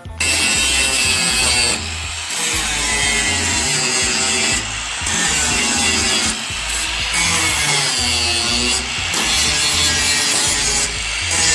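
Power grinder working sheet-metal bodywork, likely dressing welds. Its pitch sags as it is pressed in and recovers as it is eased off, with brief lifts off the metal every couple of seconds.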